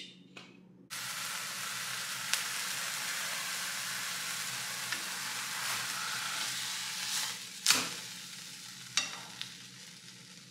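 Ground beef spread on a flour tortilla sizzling in hot olive oil in a frying pan, the sizzle starting suddenly about a second in as it goes into the pan. A spoon clacks against the pan a few times, loudest about three-quarters through as the wrap is turned, after which the sizzle is quieter.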